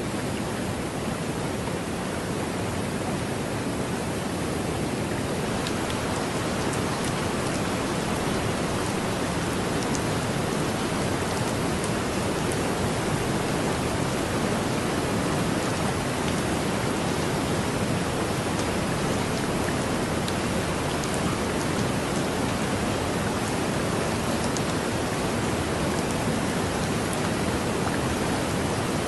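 Heavy rain falling steadily in a dense, even hiss, with scattered small drop ticks.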